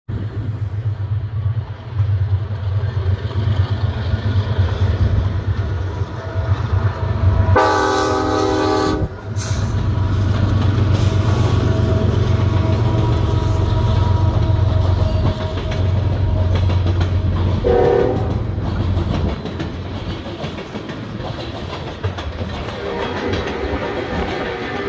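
BNSF freight train passing, with the heavy rumble of its diesel locomotives. A locomotive air horn sounds one blast of about a second and a half around eight seconds in and a short toot near eighteen seconds. After that the rumble eases into the clickety-clack of the coal cars rolling by.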